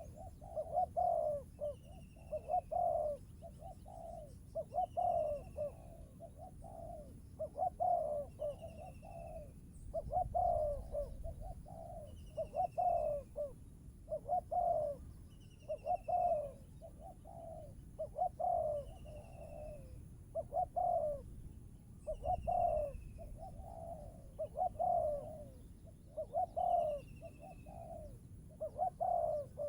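A dove cooing in repeated short phrases, about one every two seconds, with a thin falling whistle from another bird recurring between the phrases.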